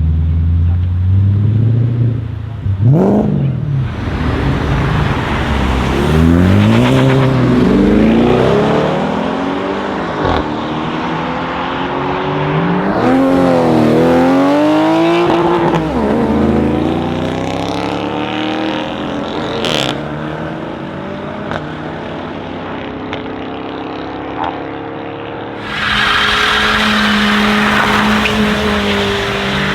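Audi RS6 C7 Performance's twin-turbo V8 through an Akrapovic exhaust, revved several times: the pitch climbs and falls in repeated sharp revs, then settles into a steadier, louder drone near the end.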